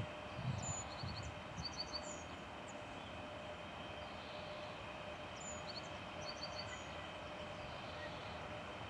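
Distant 4ES5K Ermak electric locomotive and its freight train approaching while gathering speed, heard as a steady low rumble with a faint hum. A few low thumps come in the first two seconds, and a small bird sings the same short chirping phrase twice.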